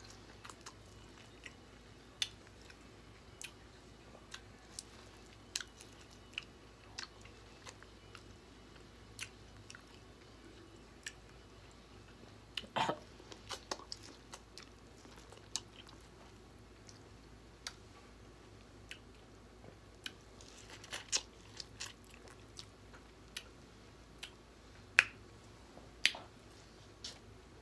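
Close-miked eating sounds of someone biting and chewing sauce-coated corn on the cob: scattered wet clicks and smacks, with a few louder ones about halfway through and again near the end.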